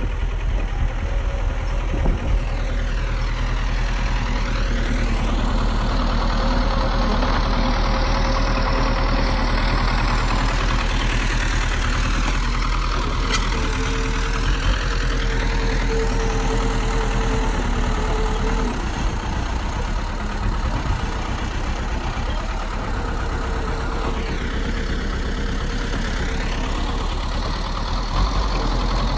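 Bulldozer's heavy diesel engine running steadily, its tone swelling and shifting a few times.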